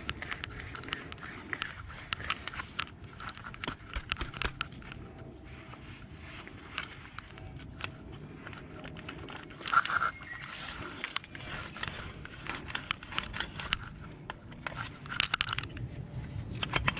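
Irregular clicks, scrapes and clinks of hand work with tools and parts, with one louder clink about ten seconds in.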